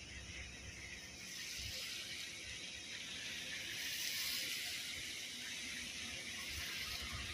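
Rain falling steadily, an even hiss that grows louder after about a second and is strongest around four seconds in.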